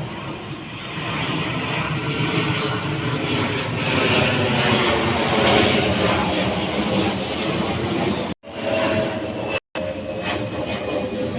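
Airplane passing overhead, its engine noise swelling to a peak about five seconds in. The sound breaks off abruptly, and a similar aircraft noise with steadier tones follows.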